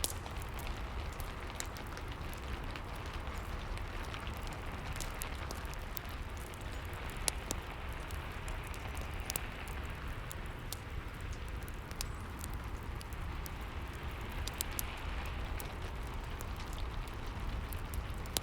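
Steady rain with a fireplace fire crackling, its scattered sharp pops and snaps heard over the even hiss of the rain.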